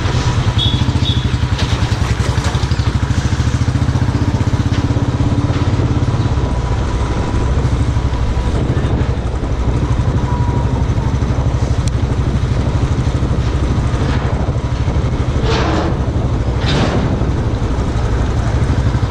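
Royal Enfield motorcycle engine running steadily while riding, with an even, low pulsing exhaust beat.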